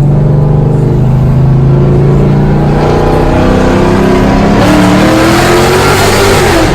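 Loud car engine and straight-piped exhaust with an X-pipe accelerating, its note steady at first and then climbing in pitch for several seconds before dropping near the end.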